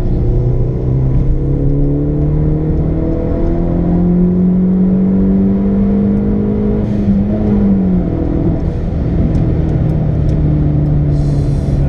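Hyundai Veloster Turbo's turbocharged 1.6-litre four-cylinder, fitted with an Injen intake and Flowmaster exhaust, heard from inside the cabin under a wide-open-throttle pull in third gear. The engine note climbs steadily for about seven seconds, drops as the throttle closes about eight seconds in, then holds steady, with a short hiss near the end.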